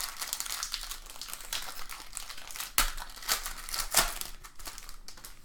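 Crinkling and crumpling of trading-card packaging as cards are handled, with a couple of sharp snaps about three and four seconds in.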